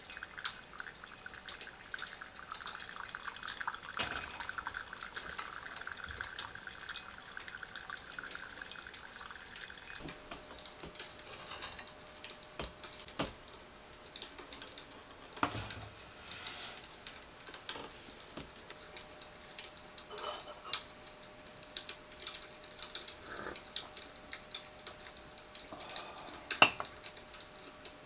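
Liquid pouring or trickling steadily for about ten seconds, then scattered light clinks and knocks of tableware.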